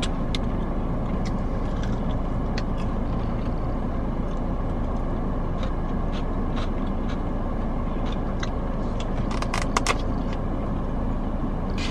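Steady noise of a car's air conditioning running inside the cabin, with a few faint clicks and taps and a short cluster of sharper clicks about ten seconds in.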